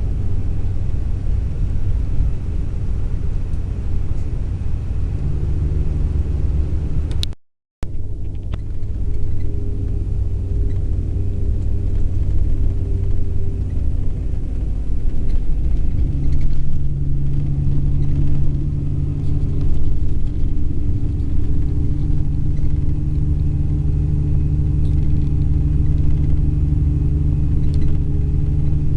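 Long-distance coach on the road: a steady low engine and road rumble. It drops out in a brief silent gap a little after seven seconds in, and the engine note steps up slightly a little past halfway.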